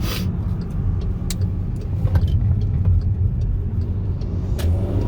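2015 Volkswagen Jetta's 1.8-litre turbocharged four-cylinder with a cold air intake, running with a steady low rumble. A few short sharp clicks come near the start, about a second in and near the end.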